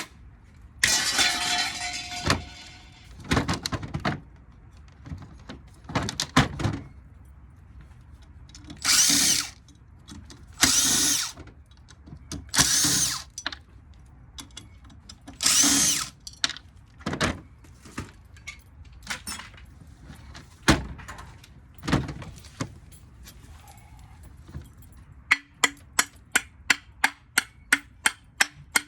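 Workbench tool noises while a ceiling-fan motor is being taken apart: a clatter of metal parts, several short whining bursts of a power tool, and scattered knocks. Near the end comes a quick even run of clicks, about three or four a second.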